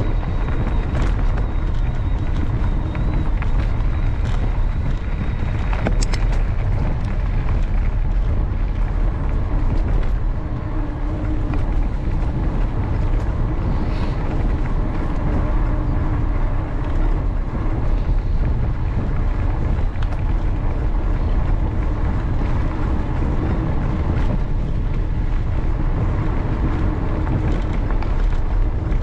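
Wind buffeting the camera microphone with tyre rumble from a mountain bike rolling along a canal towpath, steady throughout, with a few short clicks in the first several seconds.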